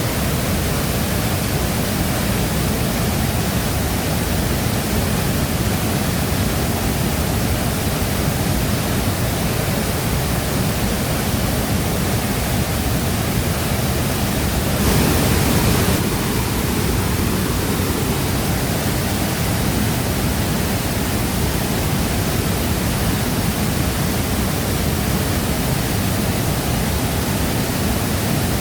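Waterfall: water falling and crashing steadily, with a brief swell about halfway through.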